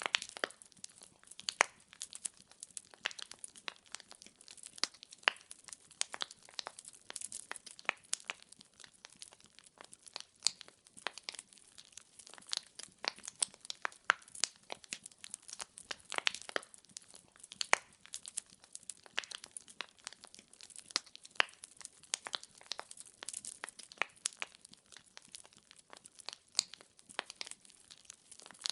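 Wood fire burning in a fireplace, its logs crackling and popping in quick, irregular snaps over a faint hiss.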